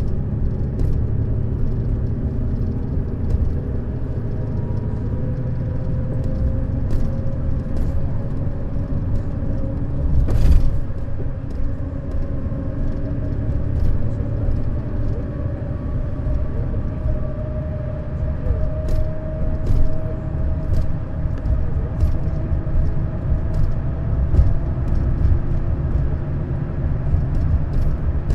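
Neoplan Skyliner N 1122/3C double-decker coach under way: steady engine and road rumble, the engine note climbing slowly as it gathers speed. A short hiss comes about ten seconds in, and faint clicks and rattles are scattered throughout.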